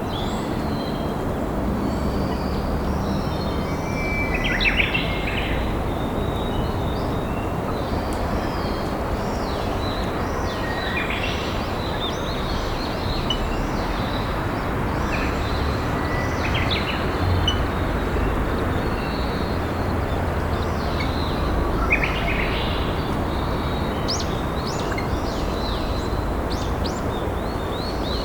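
Steady rush of a flowing river, with wild songbirds chirping and singing over it; a few louder song phrases stand out at intervals of several seconds.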